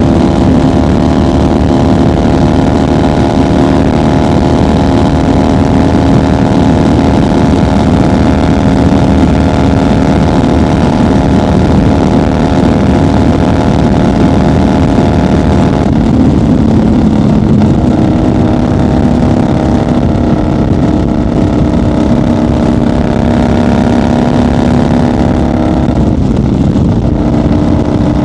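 1990 Harley-Davidson FXR's Evolution V-twin engine and exhaust running steadily at highway cruising speed. The engine note shifts about sixteen seconds in and again near the end as the throttle changes.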